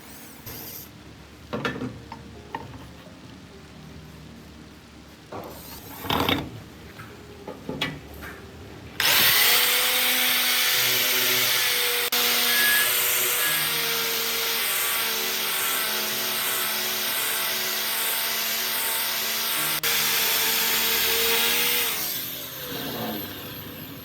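A few scattered knocks and clicks, then about nine seconds in an electric power tool starts abruptly and runs steadily with a whine for about thirteen seconds. It winds down and fades near the end.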